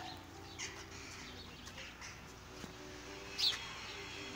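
Bird chirps: two short, high, falling calls, one about half a second in and a louder one near three and a half seconds, over a faint background hum.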